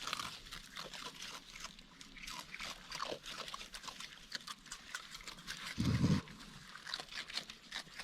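Raccoons chewing and crunching bits of cookie and cereal, with many small crunches and smacks. There is one brief, louder low sound a little before six seconds in.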